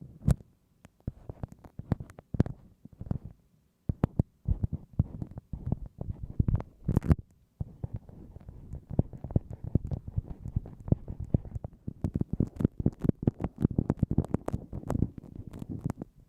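Bamboo ear pick scraping and scratching in the ear of a binaural microphone: a close, dense run of crackly rubs and clicks, with brief lulls about three and a half and seven and a half seconds in.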